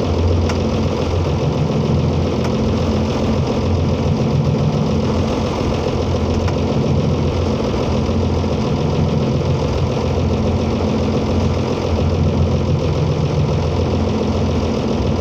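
Motorboat engine running steadily while the boat is underway, a continuous low drone with a hum that swells and eases slightly every couple of seconds.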